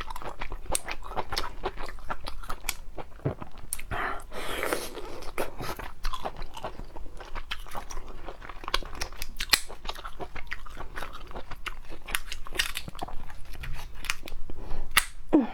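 A person eating crab legs: crunching bites and chewing, with many short cracks and clicks throughout.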